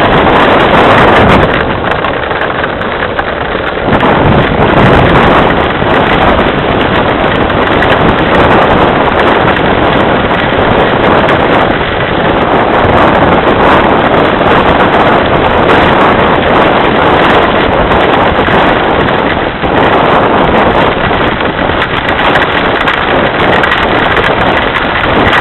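Heavy rain falling hard, a loud steady hiss that dips briefly a couple of seconds in.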